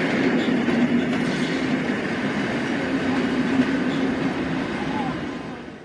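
A train rolling along the track, wheels clattering over the rails over a steady low hum; the sound fades away near the end.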